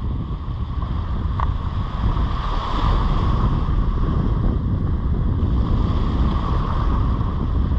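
Wind rumbling on the microphone over the steady wash of surf on the beach.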